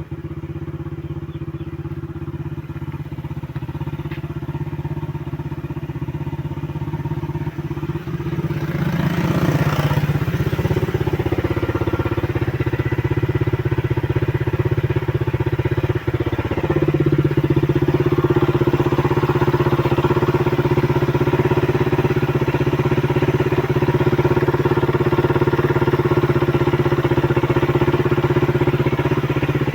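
Suzuki Raider 150's single-cylinder four-stroke engine running steadily. About a third of the way in it is raised to a faster, louder steady run. Around halfway it dips briefly and then picks back up.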